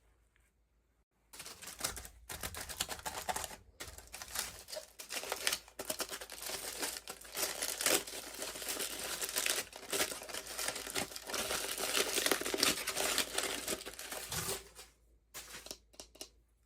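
Plastic toy packaging crinkling and crackling as it is handled and torn open, with many small clicks. It starts about a second in and dies away near the end, with a few last rustles.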